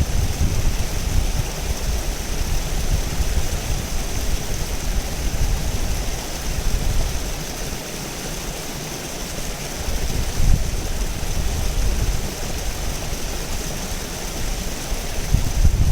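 River water rushing steadily over rocks, with an uneven low rumble underneath that eases for a couple of seconds midway.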